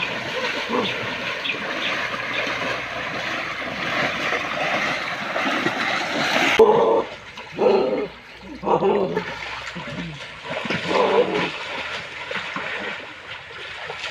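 Rushing water runs steadily, with voices or animal calls over it. About halfway through it cuts abruptly to a quieter background with short calls or voices.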